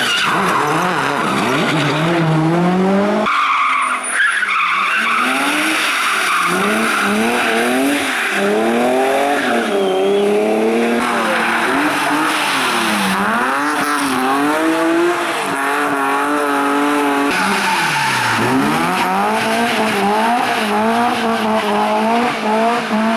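Rally car engines revving hard, the pitch climbing and dropping repeatedly as the cars work through the gears. The sound changes abruptly about 3, 11 and 17 seconds in, as it moves from one car to the next.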